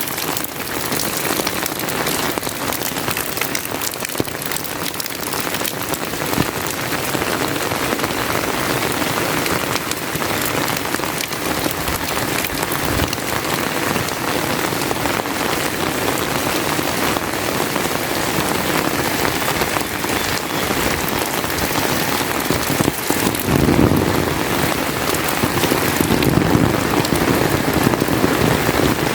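Steady rain falling, a dense hiss made of many separate drop hits. A lower rumble swells in about two-thirds of the way through and lasts a few seconds.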